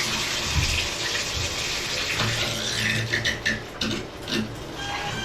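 Water spraying from a shower head just after the diverter on a Delta tub spout sends the flow up to the shower. Irregular short sputters run through the spray. Near the end a whistling tone starts and rises slightly: the noise this shower head makes when the shower is engaged.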